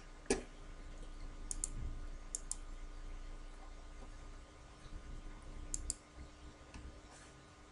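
A few faint, sharp clicks, some in quick pairs, over a quiet steady hum.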